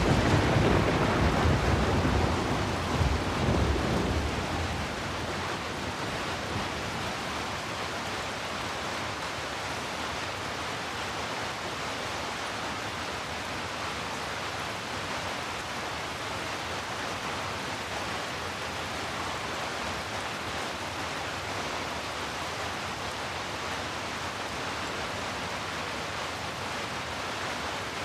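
Steady rain falling, with a low roll of thunder in the first few seconds that dies away.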